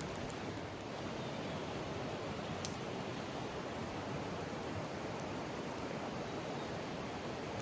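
Mountain stream rushing steadily over rocks, with a few faint high ticks and one short, sharp high sound about two and a half seconds in.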